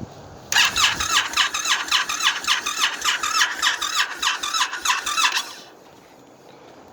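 Indian FTR's V-twin being cranked on the electric starter for about five seconds, a rhythmic cranking at about five pulses a second, without catching: the engine fails to start in cold weather. The cranking stops suddenly.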